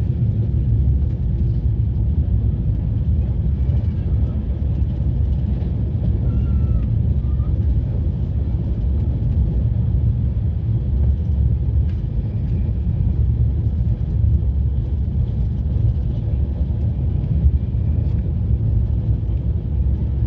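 Steady low rumble of a moving passenger train.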